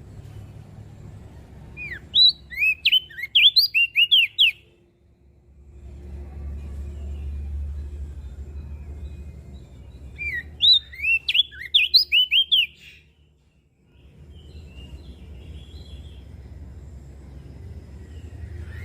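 Crested white-eye (opior jambul) singing: two quick phrases of rapid, high chirping notes about eight seconds apart, over a low steady rumble.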